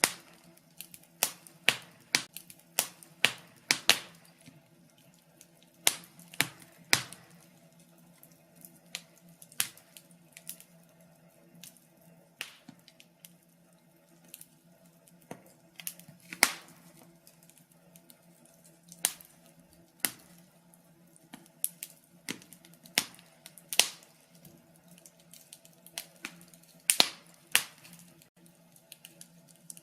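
Wood fire in a fireplace crackling: irregular sharp pops and snaps, sometimes several close together, with gaps of a second or so between clusters, over a faint steady low hum.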